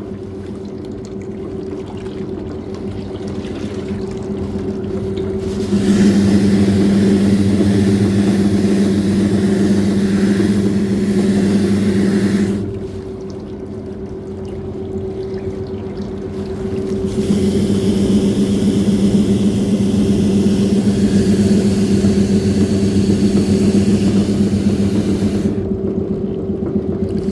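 Shoe washing machine running: a steady motor hum under churning, sloshing water that swells louder for several seconds and then drops back, twice over.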